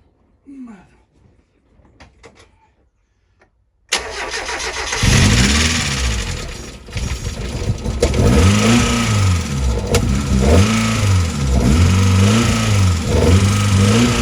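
Mazda MX-5 Miata's four-cylinder engine cranks and starts about four seconds in, its first run on a freshly fitted cam belt. It then runs with the revs rising and falling again and again, trying to die, as it has no battery or alternator and is kept going by a jump starter.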